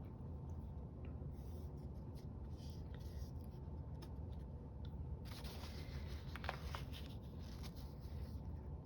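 Faint scratching and rubbing of paper being handled and arranged, with a few light clicks, over a steady low hum.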